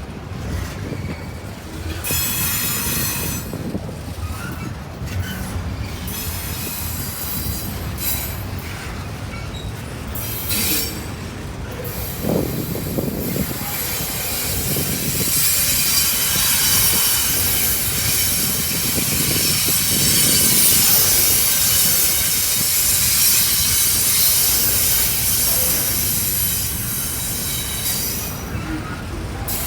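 Cars of an intermodal freight train rolling past, the steel wheels squealing high-pitched against the rails at times, loudest through the second half.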